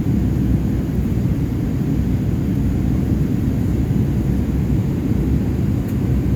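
Steady low rumble of a Boeing 787-8 airliner's engines and airflow, heard inside the passenger cabin from a window seat.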